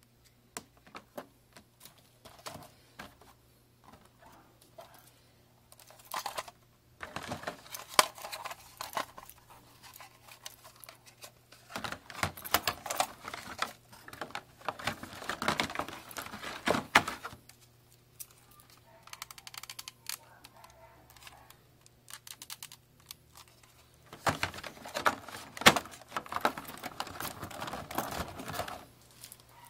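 Handling noise: quick clicks and rattles of small hard objects with some rustling, coming in three bouts of a few seconds each, over a faint steady low hum.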